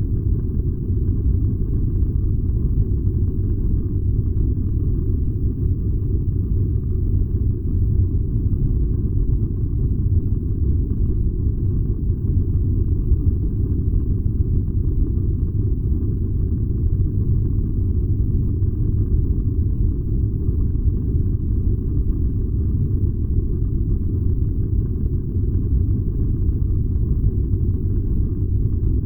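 Furnace running with a steady low rumble that never changes.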